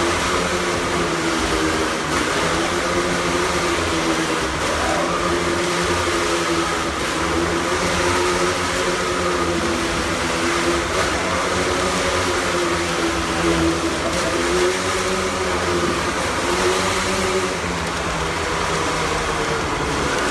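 Engine of a stunt vehicle riding around the vertical wooden wall of a Wall of Death, running steadily, its pitch rising and falling in slow waves every couple of seconds as it circles the drum.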